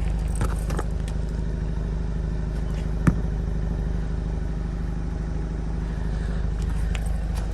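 Turbocharged 2.0-litre four-cylinder engine of a 2014 Audi A4 2.0T idling steadily, heard from the rear of the car. About three seconds in there is a single sharp click.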